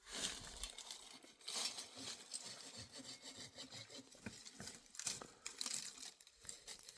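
An uneven series of rough rasping strokes, about one or two a second, as of something scraping or cutting.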